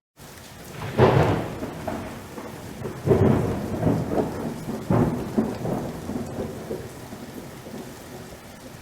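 Rain falling steadily with thunder: a sharp clap about a second in, then rolling rumbles around three and five seconds in that die away. The sound cuts out briefly at the very start.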